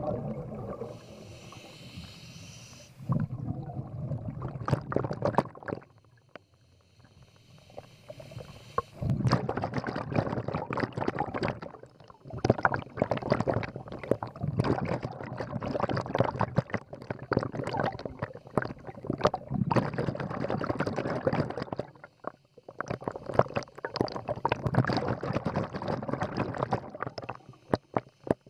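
Scuba diver breathing through a regulator underwater: a short hiss of inhalation, then long bursts of exhaled bubbles gurgling and crackling past the microphone, twice over.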